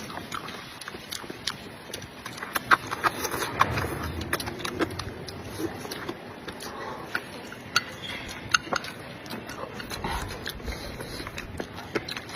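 Close-miked eating sounds: a person chewing and slurping hot pot food, with many quick wet mouth clicks and smacks.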